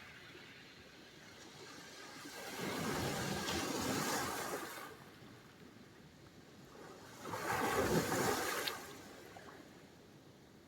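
Sea surf: two waves break and wash in on the shore, one about two and a half seconds in and a louder one about seven seconds in, each swelling and fading away.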